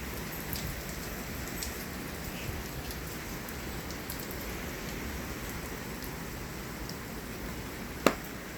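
Heavy thunderstorm rain falling steadily, a constant even hiss. About eight seconds in there is one sharp slap of a hand on a leg.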